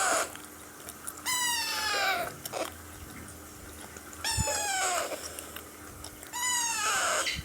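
Alexandrine parakeet chick begging for food with harsh, drawn-out calls that fall in pitch, each about a second long. Three full calls come every two to three seconds, following the tail of one just as it begins.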